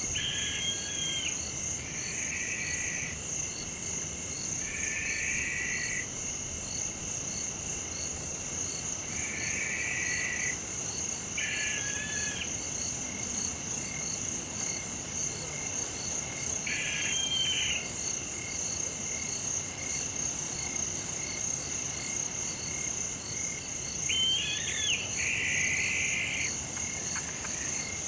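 Night insect chorus in tropical forest, a steady high trill that never stops, with frogs giving short calls of about a second every few seconds.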